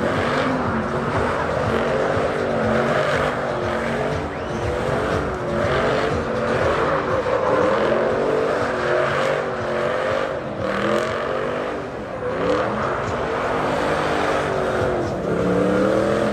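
Truck engine revving hard, its pitch climbing and dropping again and again, over a steady rushing noise.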